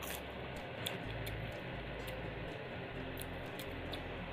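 Close-up chewing of grilled chicken: scattered soft mouth clicks and wet eating noises over a steady background hiss.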